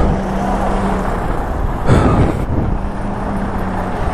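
Interstate highway traffic passing close by, with one vehicle rushing past about two seconds in, over a steady low engine hum and rumble.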